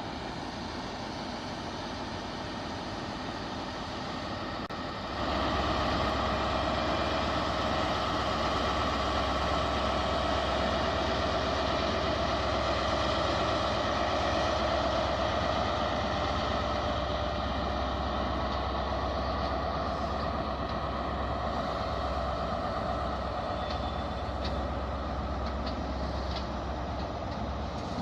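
Diesel train engine running at a station, stepping up sharply to a louder, steady drone with a deep hum about five seconds in as it takes power.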